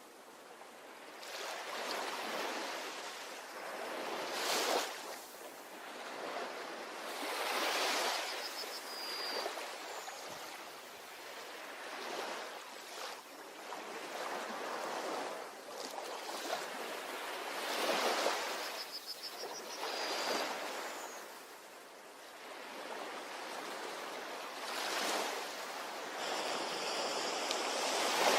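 Sea waves washing onto a beach, each one swelling and breaking every few seconds, then hissing back. A short, high chirping call comes twice.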